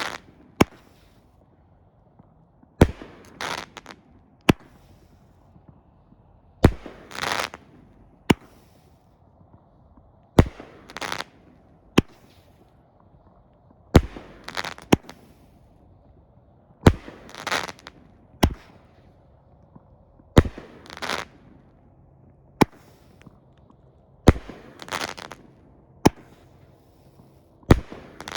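Alien Fireworks Alter Ego consumer firework cake firing single shots about every three and a half seconds. Each shot is a sharp launch bang followed by a hissing burst, sometimes with a crisp extra report.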